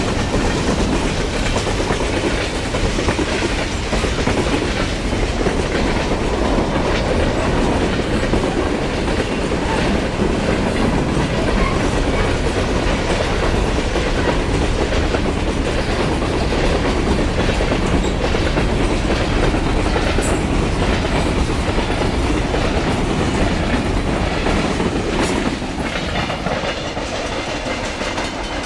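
CN freight train rolling past, loud and steady, with its cars' wheels clacking over the rail joints; it eases a little near the end.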